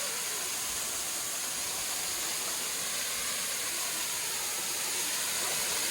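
Steady rushing of a small forest waterfall and stream, a constant even hiss of falling and running water.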